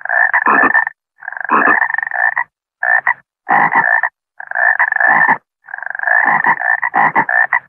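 Frog croaking in about six rattling bouts, each up to about a second long, with short pauses between.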